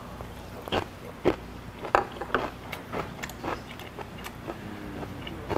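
A person chewing a mouthful of raw beef close to the microphone: irregular wet mouth clicks and smacks, several a second at times.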